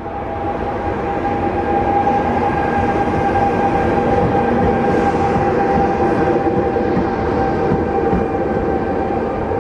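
Train running through the station, a steady whine over a dense rumbling, growing louder over the first two seconds and then holding.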